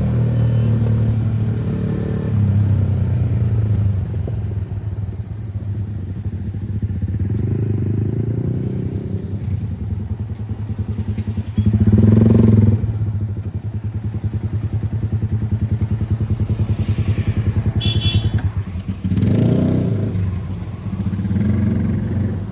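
Kawasaki ZX-10R inline-four engine running at low revs on the move, rising and falling with the throttle. It gives two short, sharp revs, about twelve seconds in and again near the end.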